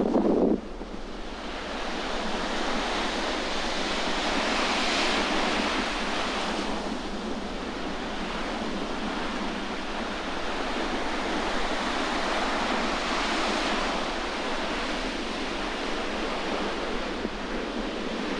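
Sea waves breaking and washing ashore, swelling about five seconds in and again around thirteen seconds, with wind blowing over them. A gust buffets the microphone in the first half second.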